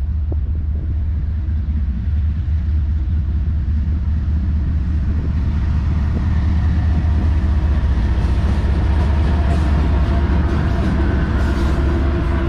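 Freight train rumbling by with a deep, steady roar that grows somewhat louder toward the end.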